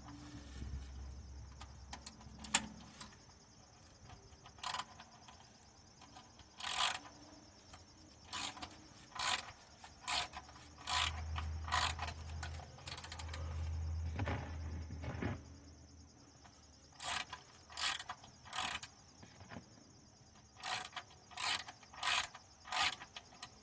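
Socket ratchet spinning out a car's oil drain plug: short bursts of ratchet clicking on each back-swing of the handle, coming in runs with pauses between.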